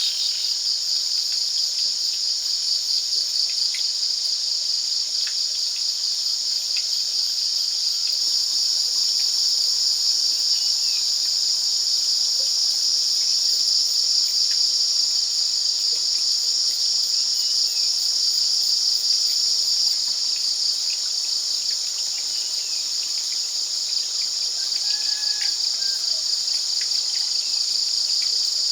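Insect chorus trilling steadily: a dense, continuous high-pitched buzz that holds its level throughout.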